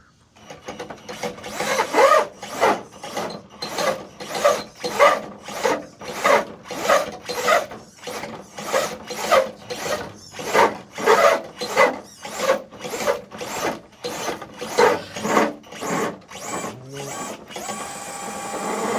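An RC truck pulling a dead-weight sled, with repeated rasping scrapes at about two to three a second as it drags the weight along. A steady motor whine rises near the end.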